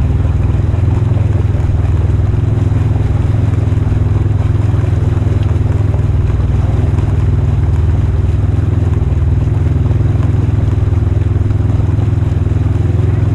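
Polaris RZR 1000 side-by-side engine running at a steady, even speed, with no revving.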